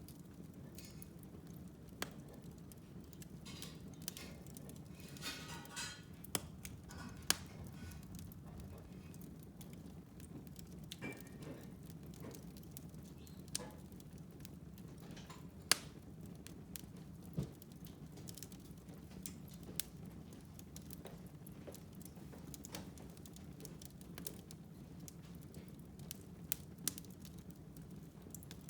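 Wood fire burning in a fireplace: a steady low rush of flame with scattered sharp crackles and pops throughout, and a brief hiss about five seconds in.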